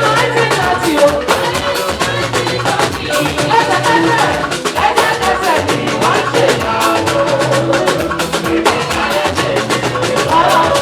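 Gospel praise band playing an upbeat instrumental groove, with drums keeping a dense, steady beat over a sustained low line and pitched instruments.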